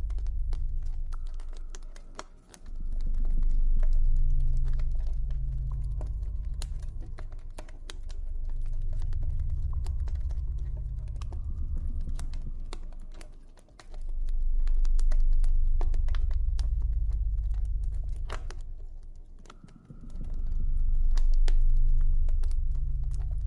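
Campfire crackling with many small irregular pops and snaps, over a deep low ambient drone that swells and fades in slow waves every five or six seconds.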